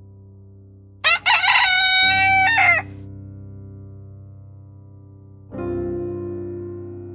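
A loud animal call about a second in: a short note, then a long held one lasting about a second and a half, over soft piano music. A new piano chord sounds about five and a half seconds in.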